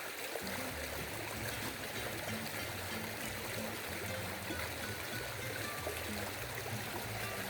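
River water flowing and trickling, a steady even rush.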